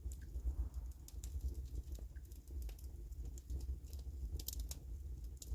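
Wood fire in a fireplace crackling: irregular sharp snaps and pops, a quick cluster of them near the end, over a steady low rumble.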